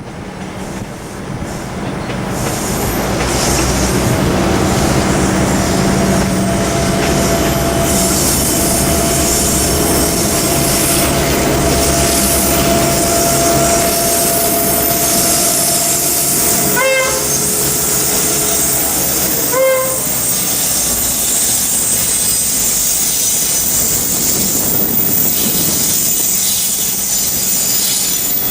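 Train running past with steady wheel-on-rail noise and a held squealing tone through the first half. Two short horn blasts sound about two-thirds of the way through, a few seconds apart.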